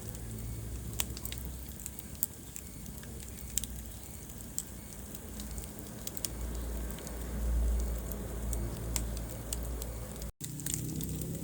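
Wood fire crackling in a fireplace: irregular sharp pops and snaps over a low, steady rumble of flames. The sound cuts out for an instant near the end.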